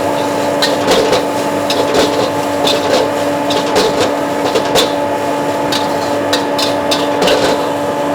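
Metal spatula scraping and clanking against a wok as rice is stir-fried, in short irregular strokes over a steady hum.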